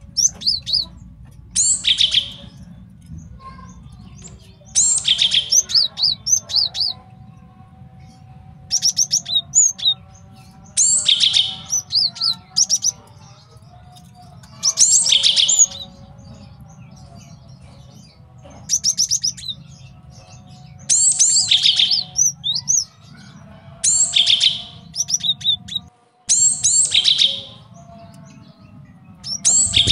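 Male cinereous tit (gelatik batu) singing: short phrases of rapidly repeated high notes, coming every couple of seconds, over a faint steady low hum.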